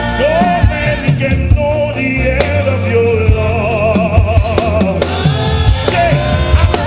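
Gospel song: a lead voice holding long notes with vibrato over drum kit and bass.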